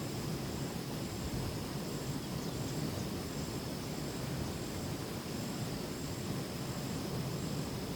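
Steady low rumble of wind and rain outdoors, with insects calling over it: a thin, high, unbroken trill and a higher chirp that pulses about twice a second.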